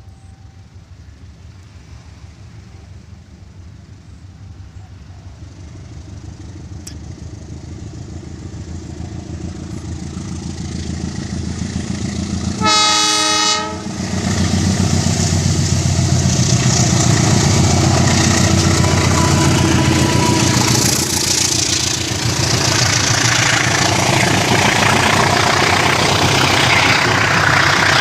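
KA Sawunggalih passenger train, hauled by a diesel locomotive, approaching and growing steadily louder. About halfway in, the locomotive's horn sounds once for about a second. The train then passes close by with loud engine rumble and wheel-on-rail noise.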